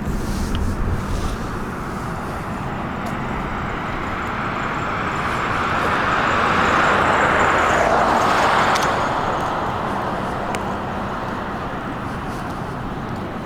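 A car passing on the road: tyre and engine noise builds up, peaks about seven or eight seconds in, then fades away.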